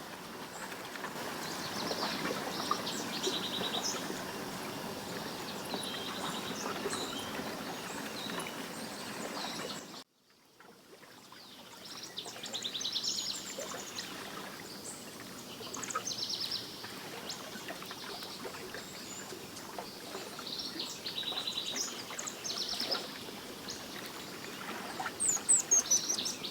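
Songbirds singing and calling over a steady rushing background, with a fast trill of rapidly repeated notes recurring several times. The sound cuts out about ten seconds in and fades back up. Sharp high calls come near the end.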